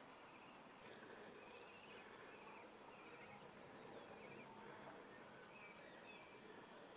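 Faint outdoor quiet with small bird chirps: a scattering of short, warbling notes at a high pitch, repeated every half second or so over a soft background hiss.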